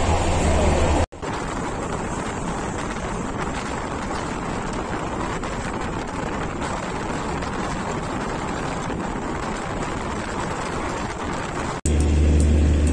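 Steady running noise of a moving express train heard from on board. Before a cut about a second in and again after a cut near the end, a deep steady hum sits under the noise. In between there is an even rushing noise with faint ticks and no hum.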